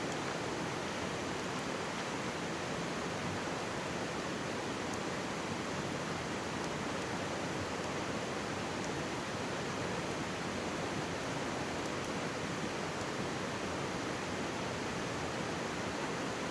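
Mountain stream babbling steadily right beside a campfire, with a few faint crackles from the burning wood.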